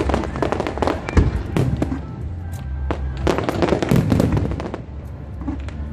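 Fireworks going off in quick succession, dense crackling with sharp bangs, one especially sharp about a second in, with music playing underneath.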